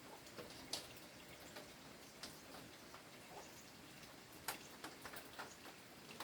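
Faint, scattered sharp clicks and light taps, a second or more apart, over quiet room tone. The loudest come about a second in and about four and a half seconds in.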